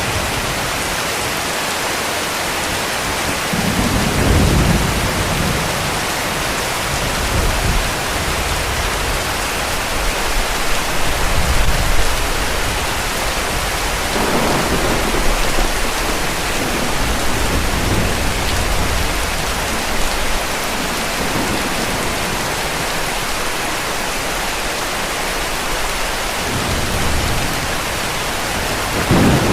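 Heavy rain falling steadily, with distant thunder rumbling low several times, the strongest rolls about four seconds in, around twelve and fifteen seconds, and again near the end.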